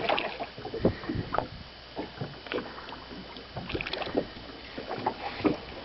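Scattered light knocks, taps and slaps in a small fishing boat, irregular and several a second, over a low steady background.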